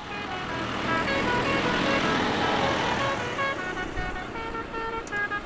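Tractor engines running as they pass, with a tune of short, steady notes stepping up and down in pitch, like Christmas music or a musical horn played from one of the tractors.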